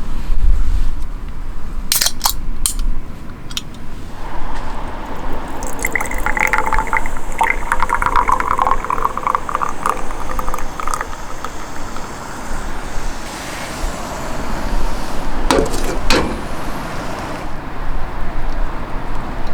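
Liquid being poured into a container for several seconds, with a few sharp clinks before and two after, over a steady low rumble of wind on the microphone.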